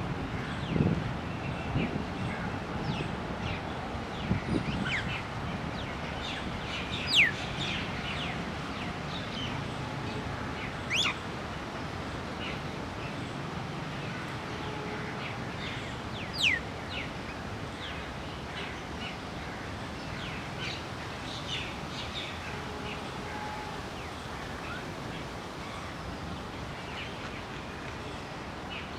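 Wild birds chirping and calling over a steady outdoor background, with three louder, sharp high calls standing out about seven, eleven and sixteen seconds in.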